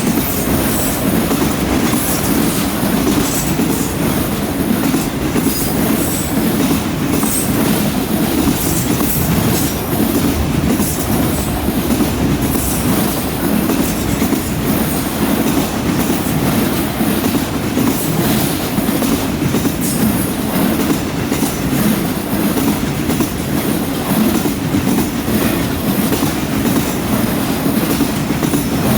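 Freight train rolling steadily past at close range: a continuous rumble of wheels on rail, with frequent sharp clicks and high-pitched wheel squeal throughout.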